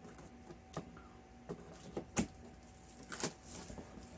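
Scattered knocks and rustles of an air conditioner's shipping box and packing being handled during unpacking: about five short, sharp sounds a second or less apart, the loudest a little past the middle.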